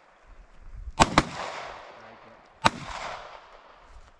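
Three gunshots: two in quick succession about a second in, then a third about a second and a half later, each followed by a fading echo.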